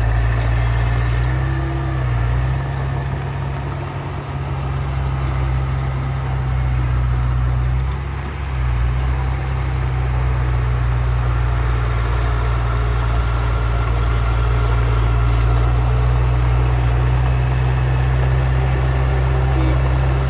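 Heavy earthmoving machine's diesel engine running steadily under work, with a deep low drone. The engine note dips briefly about two seconds in and again about eight seconds in, and the engine grows a little louder in the second half.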